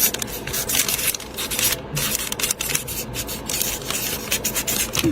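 Irregular scratchy rubbing and scraping strokes, many in quick succession.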